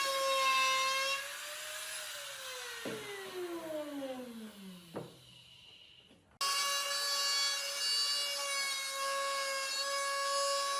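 Electric woodworking power tool running with a steady high whine. About a second in it is switched off and winds down, its pitch falling and fading over several seconds with a couple of knocks. About six seconds in it is suddenly running at full speed again.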